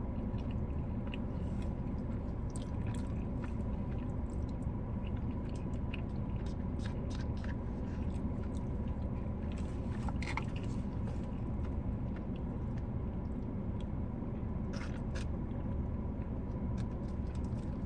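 Close-miked chewing and mouth sounds of a person eating, with scattered small wet clicks, over a steady low hum.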